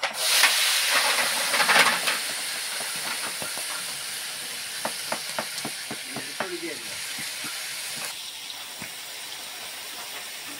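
Food sizzling in a large biryani cooking pot: a dense, steady hiss that starts abruptly and slowly eases after the first couple of seconds, with scattered small clicks and knocks.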